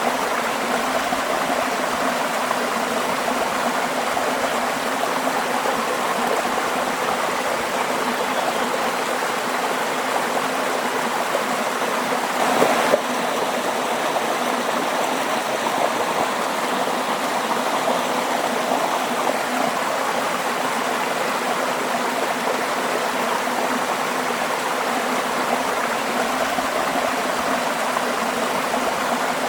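Waterfall: a steady, even rush of falling water, with one brief louder surge a little before the middle.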